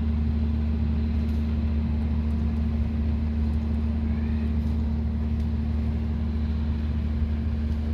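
Diesel locomotive engine running steadily, a constant low hum that holds the same pitch throughout.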